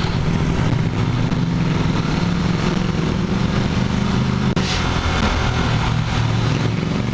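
Husqvarna Svartpilen 401's single-cylinder engine running at a steady speed under way, with a rush of wind and road noise over it. A brief click about four and a half seconds in.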